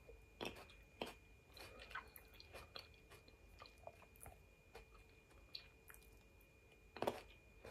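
Faint close-up chewing of grapes: scattered soft wet crunches and mouth clicks, with a louder one about seven seconds in. A faint steady high tone runs underneath.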